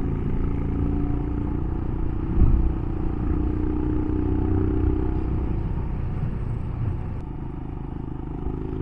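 Royal Enfield Himalayan's single-cylinder engine running steadily under way, heard from on board, with a low rumble underneath and a brief louder bump about two and a half seconds in.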